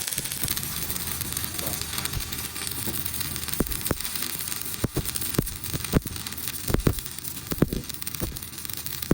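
Irregular sharp knocks and clicks, about a dozen spaced unevenly, starting about three and a half seconds in, over a steady hiss of background noise.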